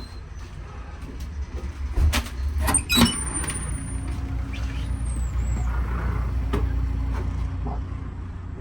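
Steady low rumble of an idling diesel passenger train. A few sharp knocks come about two and three seconds in, with faint high whistling tones and a short falling squeal after them.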